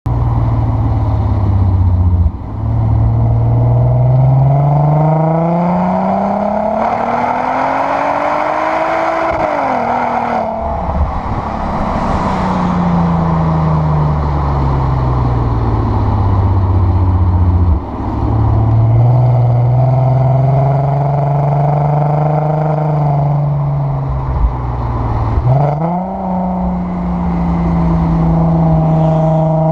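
VW Sharan 7M's R32 3.2-litre VR6 engine through a new exhaust with its flap open, pulling hard with the revs climbing steadily to a high peak about ten seconds in. The revs then drop off and fall slowly as it coasts, climb again after a short break, and dip and rise sharply at a gear change near the end.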